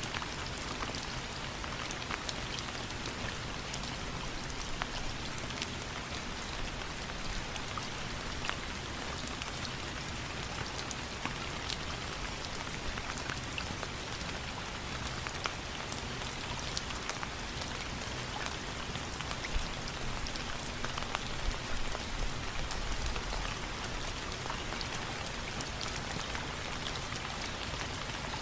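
Steady rain falling, an even hiss sprinkled with many small sharp ticks.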